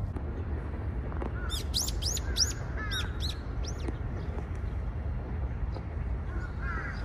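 Bird chirping: a quick run of about eight high, arching chirps lasting about two seconds, then a few fainter, lower chirps near the end, over a steady low rumble.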